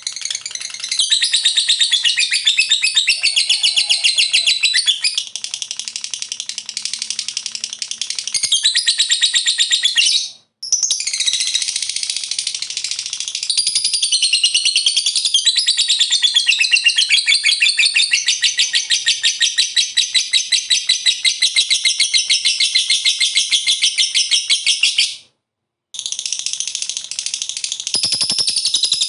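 Lovebird in long 'ngekek' bouts: a high, rapid rattling chatter of fast-repeated notes, held without a break for many seconds. It cuts off suddenly to silence twice, about ten seconds in and again near the end, then starts straight up again.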